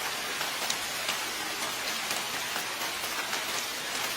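Steady rain falling, a dense even hiss with scattered sharper drip ticks.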